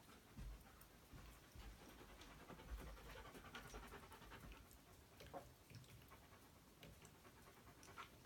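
Faint panting of a tiny 4 lb poodle, with scattered soft clicks and a few low thumps.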